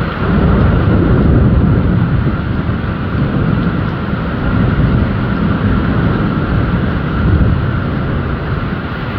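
Heavy rain with thunder rumbling low and continuously, swelling and easing several times.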